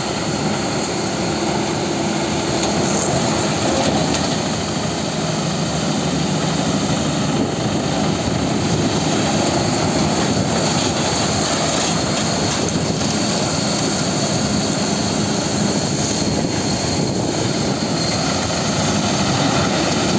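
A heavy engine running steadily under load, typical of a machine processing forest waste, with a constant drone and no pauses.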